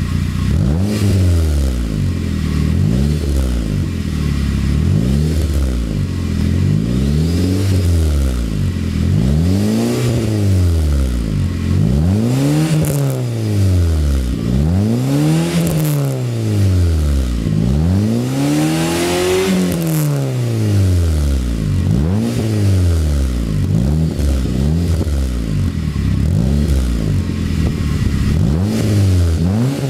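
Ford SportKa's 1.6-litre four-cylinder engine revved through its exhaust again and again, each blip rising and falling back, about one every one and a half to two seconds. The highest revs come near the middle, with a few sharp crackles at their peaks.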